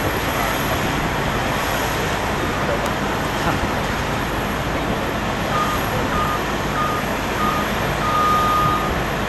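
Steady roar of airport ground and engine noise around an airliner being pushed back. About halfway through, a ground vehicle's reversing beeper starts: short single-pitch beeps repeating about every half second, one held longer.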